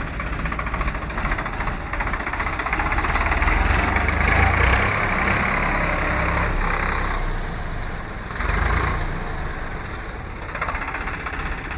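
Tractor engine running, growing louder for a few seconds in the middle, easing off, then surging briefly again.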